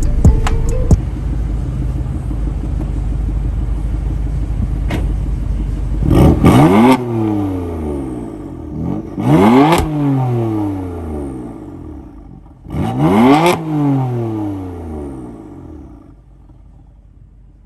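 BMW M4's twin-turbo S55 straight-six, fitted with ARM resonated downpipes and a VRSF single mid pipe, idling with a heavy low rumble, then revved three times; each rev climbs quickly and falls back to idle.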